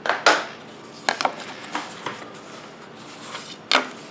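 A few short, light knocks and clicks of small tools being handled and set down on a workbench, with quiet between them.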